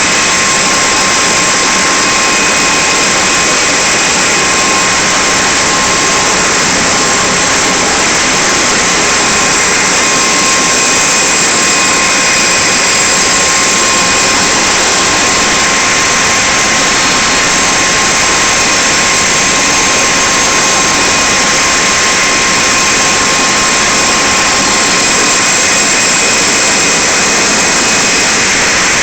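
Jet turbine running steadily: a loud, even hiss with a thin constant whine over it, unchanging throughout.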